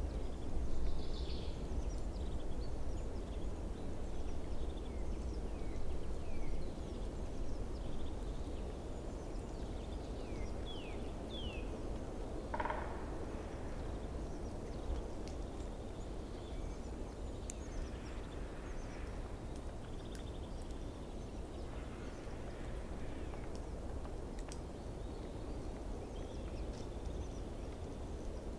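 Steady low outdoor background rumble with faint, brief bird chirps scattered through it, and one slightly louder call about halfway through.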